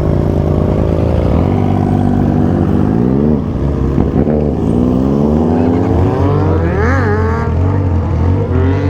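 Motorcycle engine with a 3-inch aftermarket exhaust and remapped tune, accelerating through the gears. Its pitch climbs and drops with the shifts, with one long climb peaking about seven seconds in before falling away, then rising again near the end.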